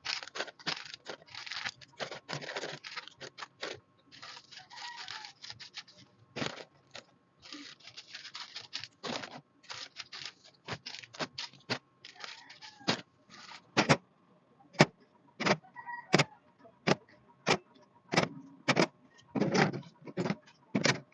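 Groceries and containers being handled and set into a refrigerator: a string of clicks, knocks and rustling. In the second half the knocks come sharper and more regularly, roughly once a second.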